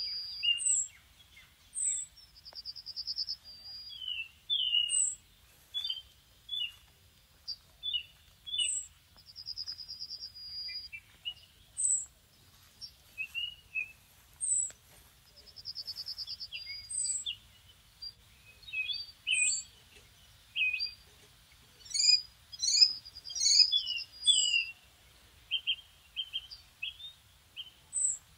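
Several birds calling in trees and shrubs: repeated short high chirps, and a buzzy trill of about a second that comes back every few seconds. A busy flurry of overlapping calls comes near the end.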